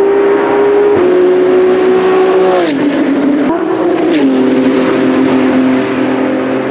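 BMW M4 GT3 race car's twin-turbo straight-six running hard, its engine note stepping down in pitch three times, about one, two and a half, and four seconds in, with a short crack at each drop.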